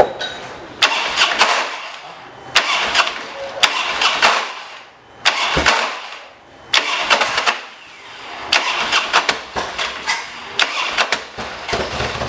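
Harley-Davidson Dyna V-twin being started several times, about seven sudden bursts each lasting roughly a second. Each starts with a sharp clack and runs into a harsh clatter that sounds like the engine is coming apart. This is the typical noise of a worn starting compensator, whose weakened springs let it kick back instead of absorbing the jolt of starting.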